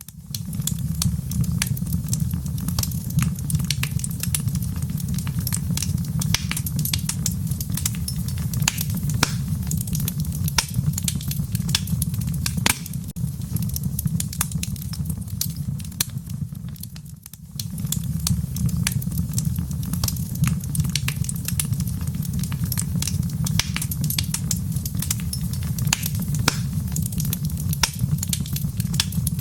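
Wood fire in a fireplace crackling, with many sharp pops and snaps over a steady low rumble. It dips away for a moment just past the middle, then resumes.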